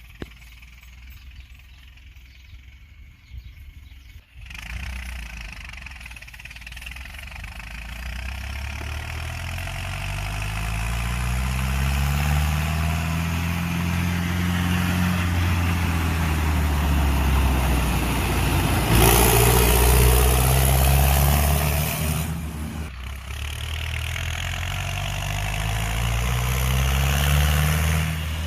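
Four-cylinder Cummins 4BT turbo diesel in a Farmall M tractor pulling away in fifth gear. It rumbles low for a few seconds, then comes in hard about four seconds in, and the engine note climbs and falls several times as it labours and gathers speed. A loud rushing swell comes about two-thirds of the way through.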